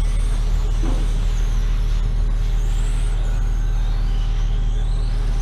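Racing motorcycles lapping the circuit at a distance, their engine whine rising and falling as they rev through the bends, over a loud steady low hum.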